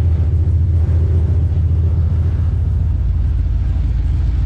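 A truck engine running close by with a deep, steady rumble. About halfway through, the lowest part of the rumble becomes smoother and stronger.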